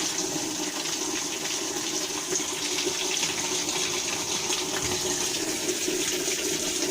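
Whirlpool washing machine filling: water pours steadily into the tub, with hot and warm water running together through both inlets.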